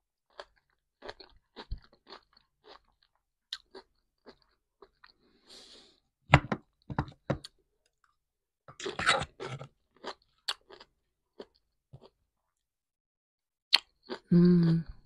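Close-miked chewing of a raw vegetable salad: wet, irregular crunches and mouth clicks, with louder clusters of crunching about six and nine seconds in.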